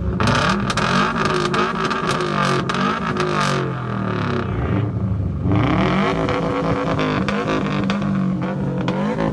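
Subaru WRX STI turbocharged flat-four engines fitted with two different exhausts, revved up and down again and again.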